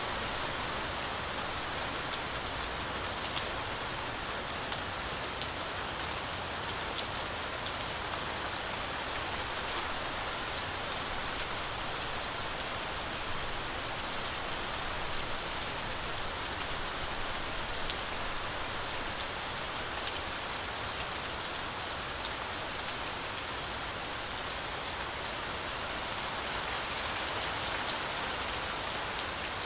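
Steady heavy rain falling on a forest canopy, a continuous even hiss with scattered drop taps.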